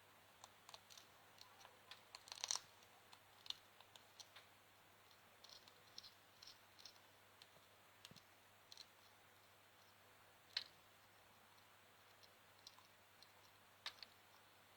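African grey parrot biting and crunching a piece of carrot with its beak: faint, irregular crisp clicks and snaps, with a few louder snaps about two and a half seconds in, near ten and a half seconds and near fourteen seconds.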